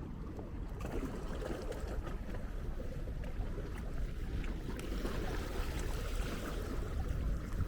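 Wind buffeting the microphone with a low, uneven rumble over a steady hiss of small waves washing on a sandy beach.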